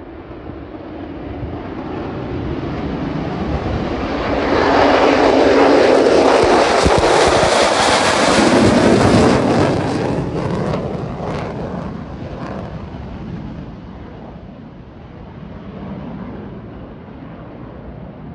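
F-35 fighter's single jet engine on a takeoff pass: the noise swells as the jet nears, is loudest for about five seconds in the middle with a brief crackle as it passes, then fades away.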